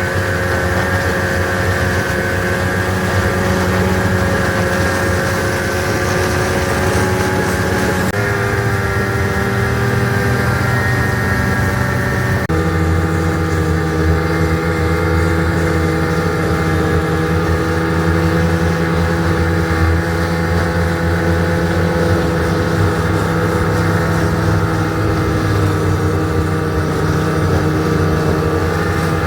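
A vehicle engine running at a steady speed, its pitch stepping down about eight seconds in and changing again about twelve seconds in.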